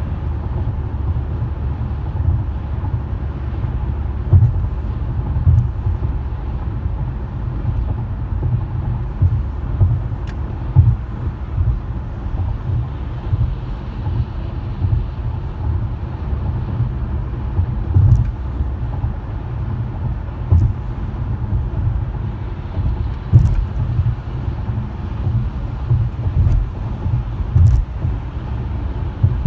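A car driving, with steady low road rumble and frequent small bumps and thumps. A few faint ticks are heard here and there.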